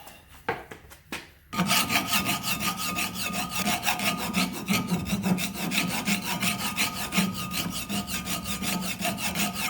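Edges of a hand-made aluminum bracket being smoothed by abrasion: a fast, even rasping scrape of about seven strokes a second. It starts about a second and a half in, after a couple of light knocks.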